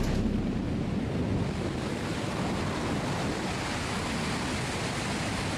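Steady rushing wind noise on the camera microphone, even throughout, with no distinct pitch or knocks.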